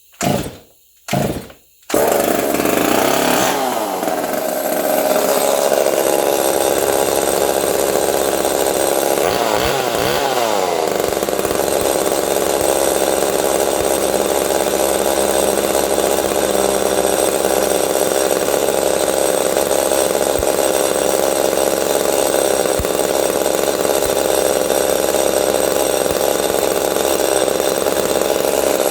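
Two-stroke chainsaw cold-started just after its clogged fuel tank vent was blown clear: two short bursts, then the engine catches about two seconds in and keeps running steadily. The revs dip and rise near three seconds and again around ten seconds.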